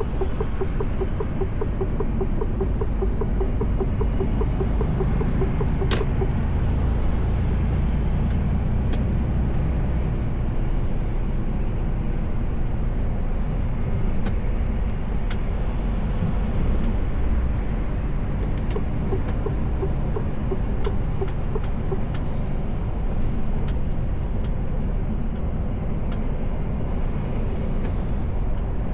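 Mercedes Actros L truck heard from inside the cab while driving: a steady low drone of engine and road noise, with a few faint clicks and a light ticking in the first few seconds and again past the middle.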